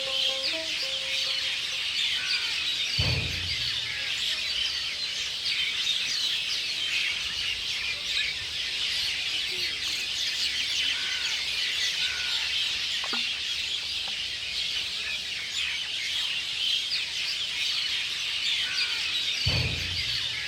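Dense, continuous chattering and chirping of a large flock of birds gathered at their roost in a bamboo clump. A few plucked dutara notes fade out in the first two seconds, and a low rumble comes about three seconds in and again near the end.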